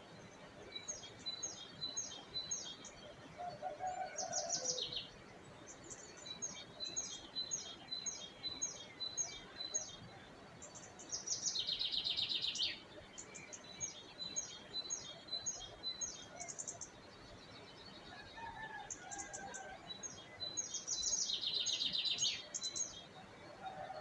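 Songbirds singing: runs of quick high chirps repeating a few times a second, with two louder rapid trills, one about halfway and one near the end.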